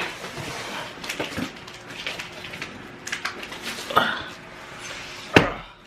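A heavy boxed flat-pack organizer being handled: scattered clattering and knocks, with one loud thump about five and a half seconds in.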